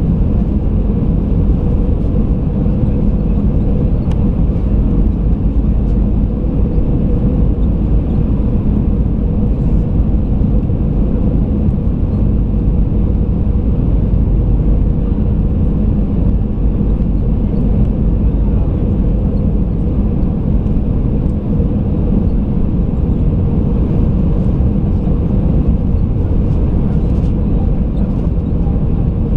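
Steady low rumble of an Airbus A320 heard from inside the passenger cabin: engine and airflow noise, unchanging, with a faint steady hum.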